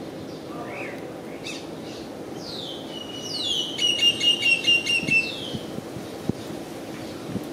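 A bird calling: two short chirps within the first second. About three seconds in, a louder call slides down in pitch, then holds with a rapid run of about seven pulsing notes for roughly two seconds. This plays over a steady low background rumble.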